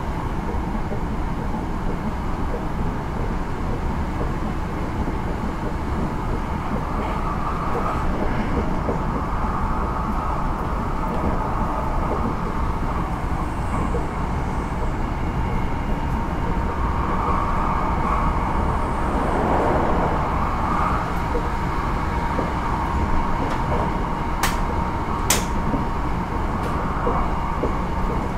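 Interior running sound of a Hankyu 9000 series electric train with a Toshiba IGBT VVVF inverter, travelling between stations: a steady rumble of wheels on rail with a faint steady whine. Two sharp clicks come a little before the end.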